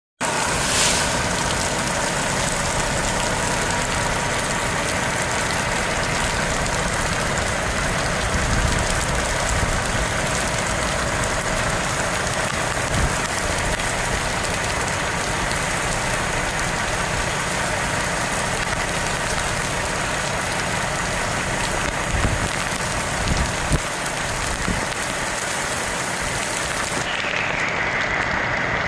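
Storm rain and wind making a steady, dense hiss, with a few brief low thumps of wind gusts here and there. Near the end the hiss suddenly loses its highest part.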